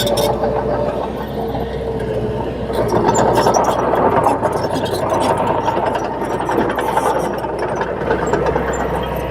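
A small crawler bulldozer running as it works, with a steady diesel engine sound, a held whine that shifts to a higher pitch about three seconds in, and scattered clicks and clanks.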